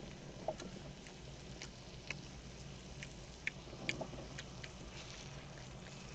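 Pork belly and kimchi frying on a pan: a faint steady sizzle with scattered sharp pops of spitting fat, loudest around half a second in and again three and a half to four seconds in.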